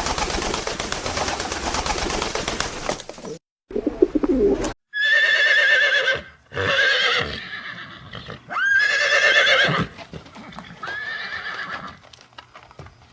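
A stretch of dense rustling noise, then a pigeon's low coo, then a horse whinnying four times in a row. Each whinny is a high, wavering call about a second long.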